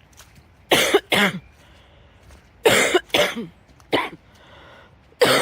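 A person coughing hard in short bouts, mostly two coughs at a time, about four bouts.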